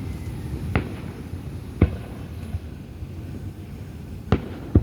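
Fireworks exploding: four sharp bangs at irregular spacing.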